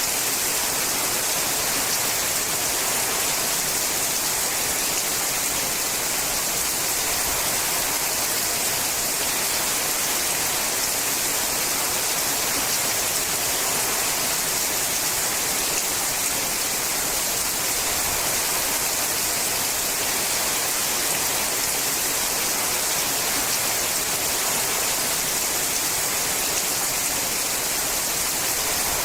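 Steady heavy rain falling on a sheet-metal roof: a dense, even hiss with no single drops standing out.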